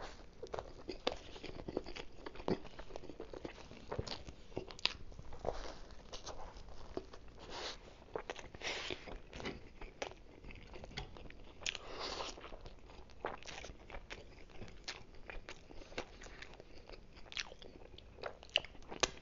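Close-up biting and chewing of a Philly cheesesteak on a toasted bun: many irregular crunches and wet mouth clicks.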